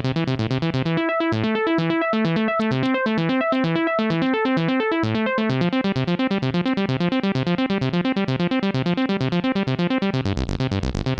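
Roland SH-201 virtual-analog synthesizer playing its factory arpeggios: fast, evenly repeating notes. The pattern and tone change about a second in and again around the middle, and a deeper bass pattern starts near the end.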